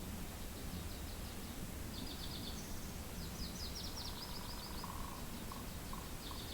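Small birds giving several quick trills of high chips, one after another, with a few short lower notes in the second half, over a steady low rush of wind.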